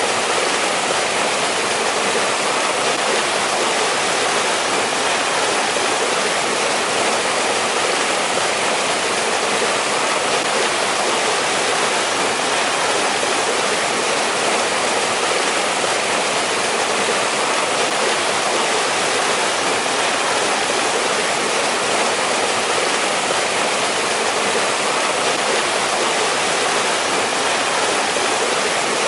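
Water of a mountain valley stream flowing, a steady, unbroken rushing hiss that is strong in the middle and high range and light in the bass.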